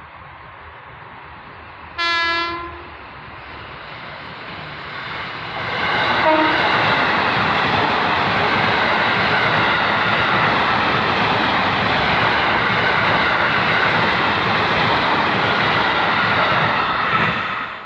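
Jakarta KRL electric commuter train sounding one short horn blast, then passing close by with a loud, steady rush of wheel and running noise. The noise cuts off abruptly near the end.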